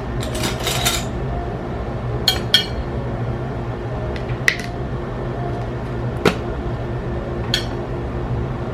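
Dishes and utensils being handled: a short clatter of light clinks, then single clinks and knocks every second or two.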